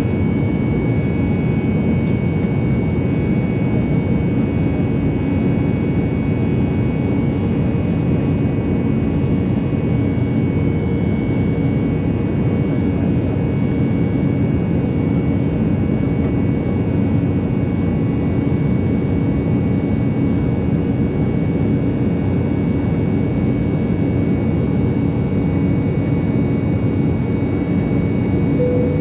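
Steady jet-engine roar of an Embraer 190 in flight, heard inside the cabin: an even, unchanging drone with a few faint steady tones over it.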